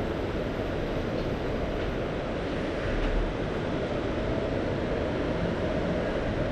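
Steady, low rumbling wash of the sea, mostly low in pitch, swelling slightly about three seconds in.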